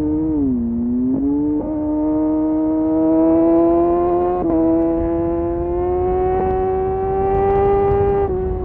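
Kawasaki Ninja motorcycle engine through an Arrow aftermarket exhaust, under throttle on the road: the engine note steps abruptly a couple of times early on and again about four and a half seconds in, climbs slowly, then falls as the throttle eases off near the end. A low wind rumble runs underneath.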